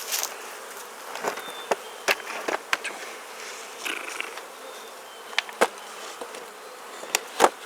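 Honeybees buzzing around an open Langstroth hive, with a series of sharp wooden knocks and clicks as the inner cover is set in place on the hive box; the loudest knock comes near the end.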